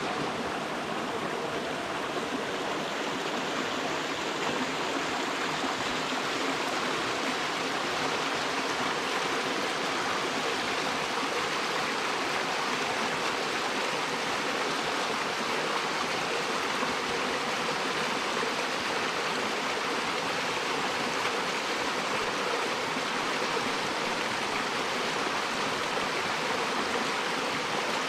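Creek water running steadily, an even rushing sound close to the microphone.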